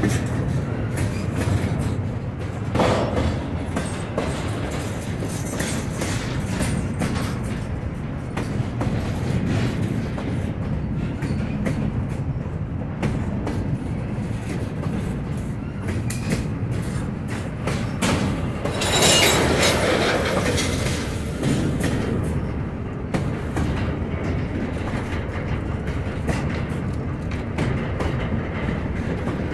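Norfolk Southern freight train rolling past, its car wheels clicking steadily over the rail joints, with a brief louder, harsher passage about two-thirds of the way through.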